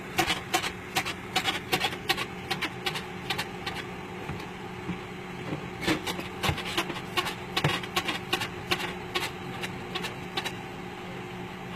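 A dog biting and gnawing at a car's plastic bumper: an irregular run of sharp cracks and clicks, several a second, over a steady low hum.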